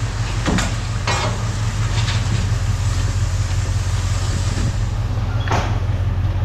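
A steady low engine hum, with a few sharp metal clanks as pieces of scrap metal are handled and dropped. The last clank, near the end, rings briefly.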